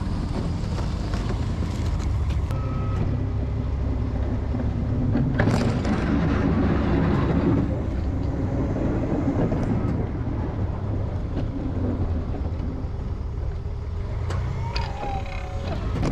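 Snow-plow truck's engine running steadily, with a louder stretch about six to seven seconds in.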